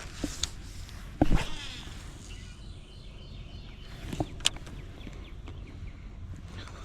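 A few short clicks and knocks from fishing tackle being handled in a small boat, the loudest with a brief swish about a second in and two sharp ticks a few seconds later, over a faint steady low hum.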